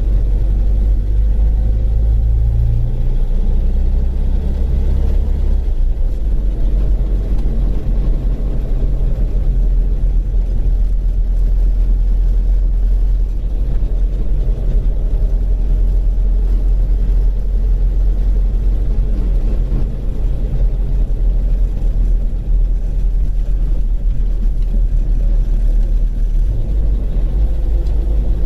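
Rover Mini's A-series four-cylinder engine running with a steady, loud low rumble while the car is under way; the engine note steps down about three seconds in.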